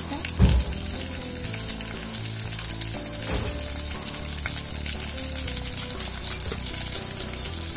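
Onion, garlic and green chillies sizzling steadily in hot coconut oil in a clay pot as curry leaves are added for a tempering. A single dull thump about half a second in.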